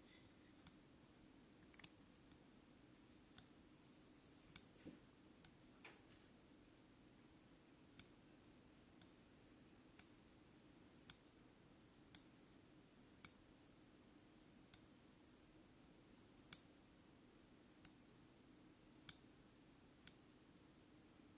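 Faint, sharp clicks at irregular intervals of about a second, typical of multimeter probe tips tapping against the ECU's connector pins while checking them for open circuits, over a low steady hum.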